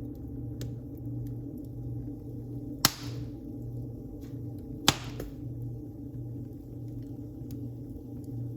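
Wood fire burning in a fireplace: a steady low rumble with a few faint crackles and two sharp pops from the burning wood, about three seconds in and again two seconds later.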